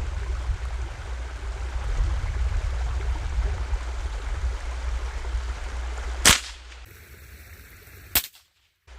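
Steady wind rumble and hiss on the microphone, broken about six seconds in by one sharp, loud crack, and by a second, shorter click near the end.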